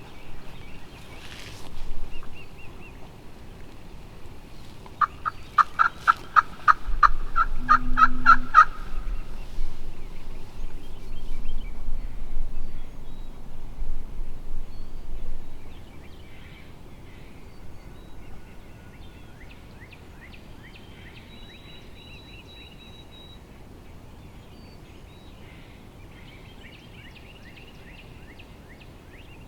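Wild turkey yelping: a loud run of about fourteen evenly spaced yelps over three or four seconds, rising slightly in pitch. A stretch of rustling and low rumble follows, then faint songbird chirps.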